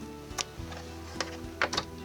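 Soft background music with held notes, over which four sharp plastic clicks sound: one early and three close together in the second half, from hands handling the bobbin and winder on a sewing machine.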